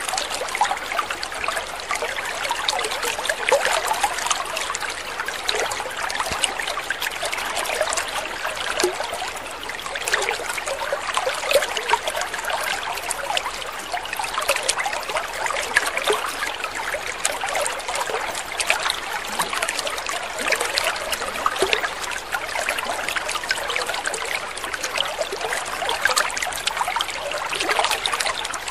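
Water trickling and splashing steadily, a continuous babble of small droplets and ripples with no change in flow.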